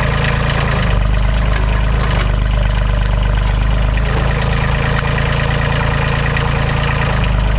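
Timberjack forwarder's diesel engine running steadily at a low, even note, which shifts slightly about a second in.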